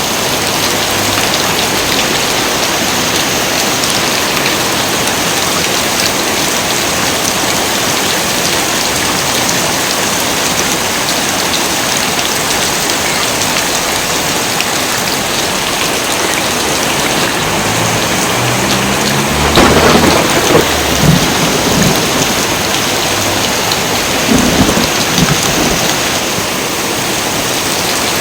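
Steady heavy rain pouring, with thunder rumbling loudly twice past the middle, the second clap shorter and fainter.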